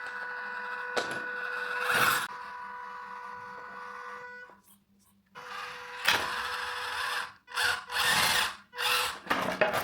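Electric motor and gears of an RC pickup truck whining steadily, cutting out briefly about halfway, then several short loud bursts of throttle.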